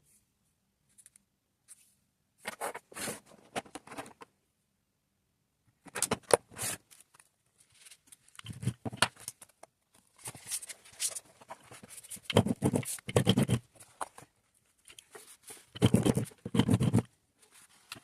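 Diamond painting tools and resin drills handled close to the microphone: irregular bursts of small clicks, taps and scratchy rustling, coming in clusters with short pauses between them.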